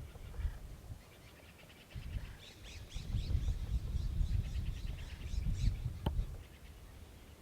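A small bird chirping in rapid trains of short, high repeated notes, over an uneven low rumble. There is one sharp click about six seconds in.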